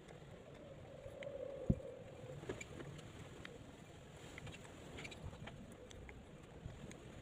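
Faint small clicks and taps of hand carving tools working the material over a low background hiss, with one sharper knock about two seconds in.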